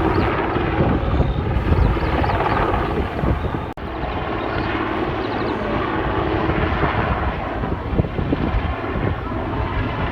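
Aircraft engine noise, loud and steady, with a brief break about four seconds in.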